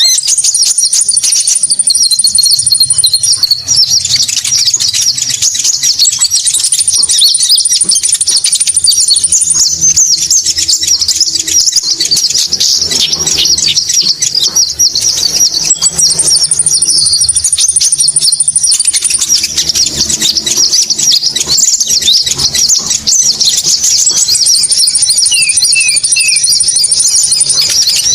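Bird-lure recording of small birds chattering rapidly and high-pitched, used to call in the konin bird. A high, even trill of about three seconds returns every six to eight seconds over the chatter.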